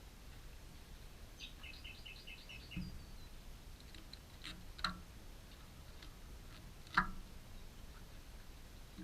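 A bird gives a quick run of about seven high chirps about a second and a half in. A few sharp, isolated knocks follow at intervals, near three, five and seven seconds in, the last one the loudest.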